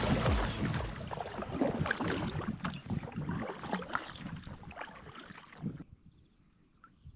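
Water splashing and lapping around a kayak, with irregular small splashes and knocks. It fades away about six seconds in, leaving near silence.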